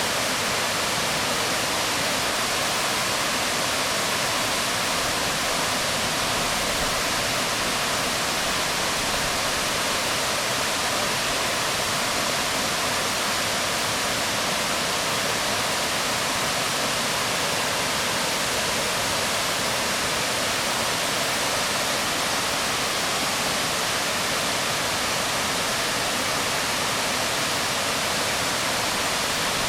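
Waterfall pouring onto rocks: a steady, even rush of falling water with no breaks or changes.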